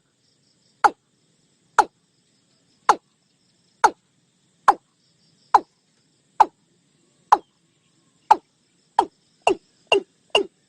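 Watercock calling: a series of short, loud 'kok' notes, each dropping quickly in pitch. They come about once a second, then speed up to about two a second near the end.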